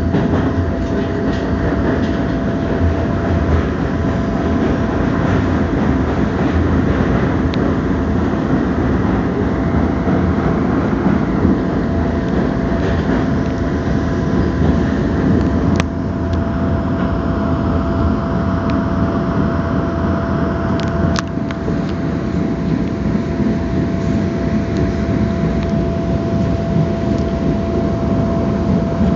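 Passenger train running along the track, heard from inside the carriage: a steady rumble of wheels on rail with a constant whine over it. There is one sharp click just past halfway and a quick pair of clicks about five seconds later.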